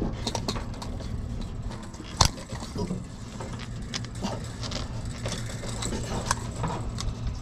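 Hand work on a stuck part: scattered small clicks, scrapes and knocks, with one sharper knock about two seconds in, over a steady low hum.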